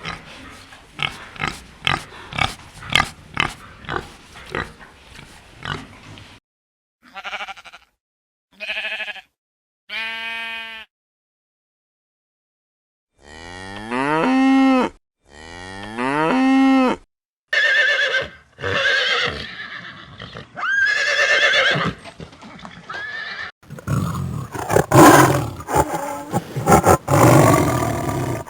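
A string of different animal calls, one after another with short silent gaps: a run of sharp clicks at first, then short pitched calls, two long drawn-out calls, and a harsher, louder, noisier stretch near the end.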